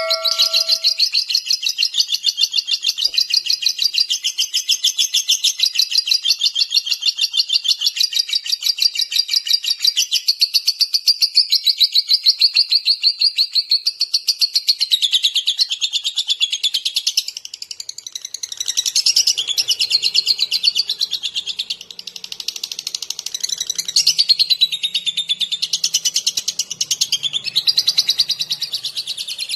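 Lovebird chattering in a long, rapid, unbroken run of high-pitched chirps, dipping briefly a couple of times in the second half before picking up again.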